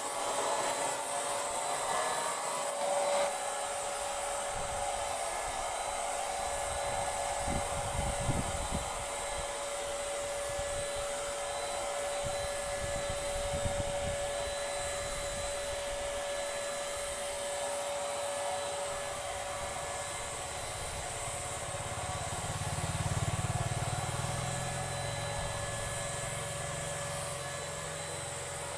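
Handheld Paint Zoom electric paint sprayer running steadily, its turbine blowing with a constant whine.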